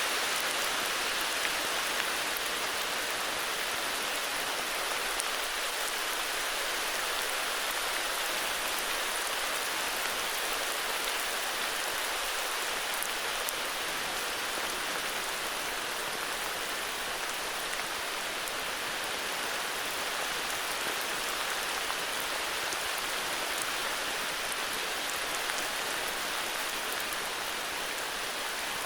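Steady heavy rain falling, an even hiss of drops with fine pattering, without breaks or thunder.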